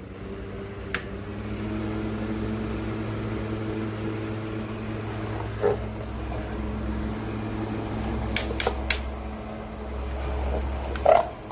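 Honeywell HT900C TurboForce desk fan running with a steady motor and blade hum. It gets louder about a second and a half in and drops after a loud click near the end, with a few other clicks and knocks along the way.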